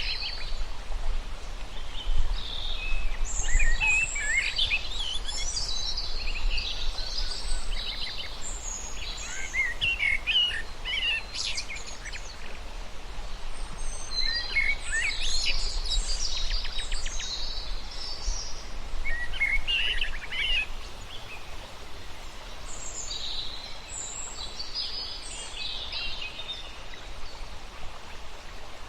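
Several small birds chirping and twittering in bursts of quick calls, with short lulls between, over a steady low rumble.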